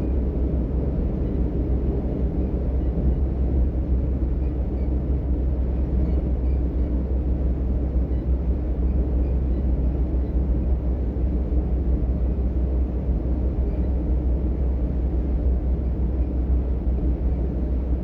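DB Class 425 electric multiple unit running at steady speed, heard from inside the car: an even, deep rumble of wheels and running gear on the track.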